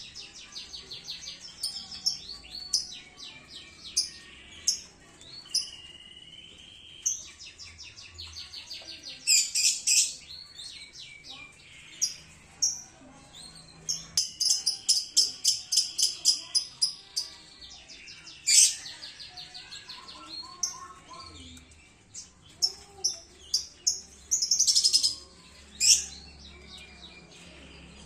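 Canaries kept together in a colony chirping and singing, with rapid rolling trills and short repeated chirps. Loud runs of trilling come several times.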